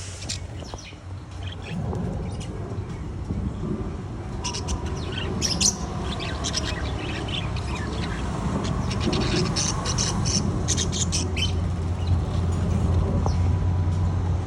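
Pet parrot squawking and chirping in short, quick high calls, thickest between about four and twelve seconds in, over a steady low hum.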